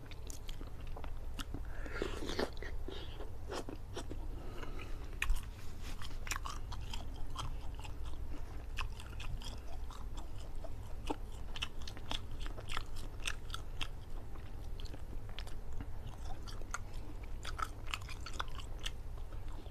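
Close-miked chewing of curried chicken, with many short wet mouth clicks and smacks, and light tearing as the cooked meat is pulled apart with the fingers.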